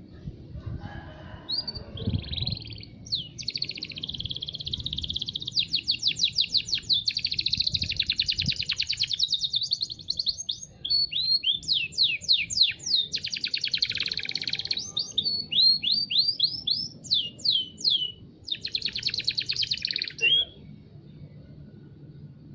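Canary singing a long song of rapid trills and runs of quick downward-sweeping notes, stopping about two seconds before the end.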